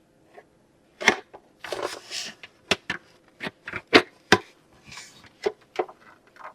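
Bird feeder kit parts being handled and fitted together: a string of sharp clicks and knocks as pieces are pushed into place, with brief rustling in between.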